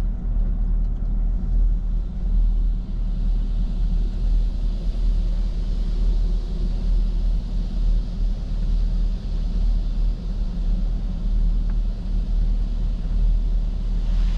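Steady low rumble heard inside the cabin of a 2021 Chevrolet Camaro 2SS, its 6.2-litre V8 idling, with no sharp events.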